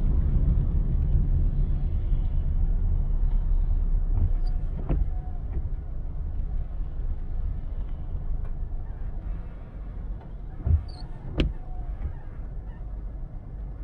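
Car driving, a steady low rumble of engine and tyres that gets quieter about a third of the way in as the car eases off. A few sharp clicks cut through it, one about five seconds in and a louder one near the end, with a dull thump just before it.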